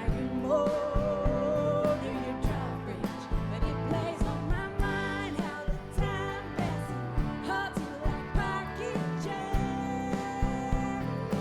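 Live indie-country rock band playing: drums keep a steady beat under guitars, with long held, wavering melody notes.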